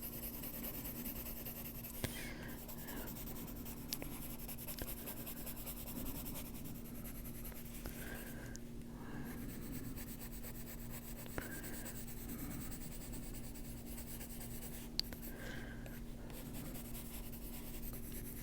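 Faber-Castell Polychromos colored pencil scratching softly on a coloring-book page in continuous shading strokes, with a faint steady hum underneath and a few light ticks.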